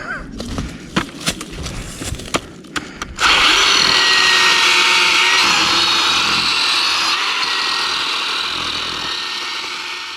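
A few handling clicks and knocks, then about three seconds in a 10-inch 20-volt battery-powered chainsaw starts. It runs steadily, cutting through wood.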